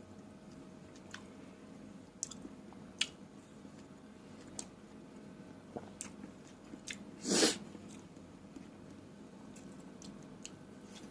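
Close-miked chewing of fresh fruit: scattered wet mouth clicks, with one louder half-second crunch or bite about seven seconds in.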